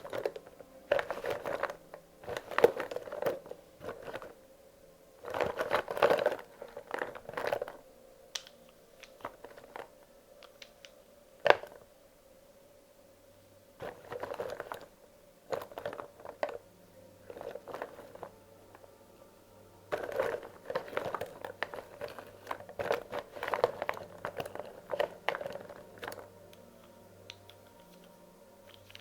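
Wax crayons being handled and sorted: clusters of clattering and rustling as handfuls of crayons are shuffled and set down, with sharp clicks of crayons knocking together, and brief pauses between.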